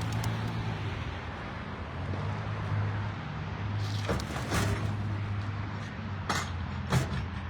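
A vehicle engine idling with a steady low hum, with a few short, sharp knocks or clatters around four seconds in and again near the end.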